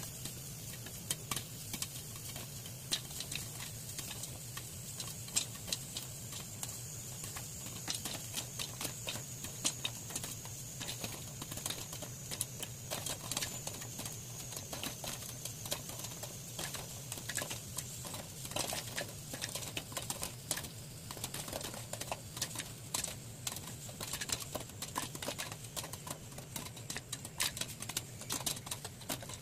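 Popcorn kernels popping in an oil-coated, covered pan: a steady stream of irregular sharp pops, several a second, over a steady low hum.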